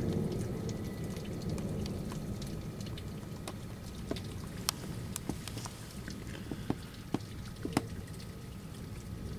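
The tail of a thunder rumble fading away over the first few seconds, under steady rain with scattered sharp drips of water, several of them clear single drops in the second half.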